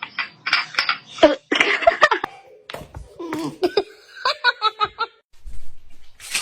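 People laughing in short breathy bursts, then a run of quick pitched laughs at about five a second.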